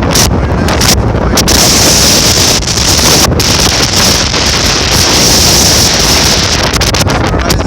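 Strong, gusty wind buffeting the microphone: a loud, rushing noise, with a high hiss added from about a second and a half in until near the end.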